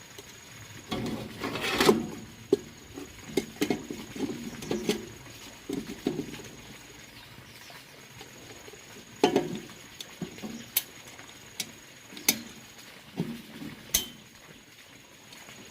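Irregular clicks, knocks and short scraping sounds of hand work on metal parts, with the loudest knocks about two seconds in and again around nine seconds.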